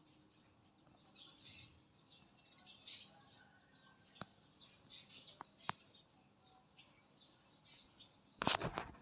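Small birds chirping and twittering again and again in the background. Two sharp clicks come in the middle, and a short burst of louder rustling comes near the end.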